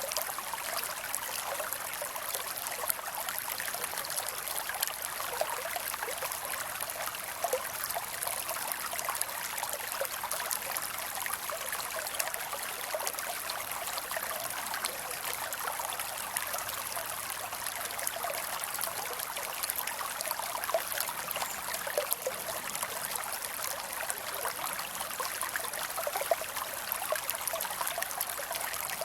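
Shallow creek flowing and trickling steadily, a constant splashing with nothing deep in it.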